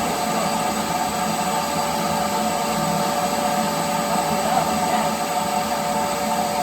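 Vacuum running steadily with a constant whine, sucking dirt and mud out of a hole in a floor.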